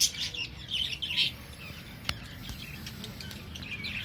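Budgerigars chirping in short high bursts, mostly in the first second or so and again faintly near the end, with a single sharp click about two seconds in.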